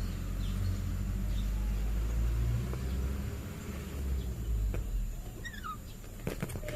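A pet lory giving a few faint short chirps, one a quick falling chirp near the end, over a steady low rumble, with a few clicks just before the end.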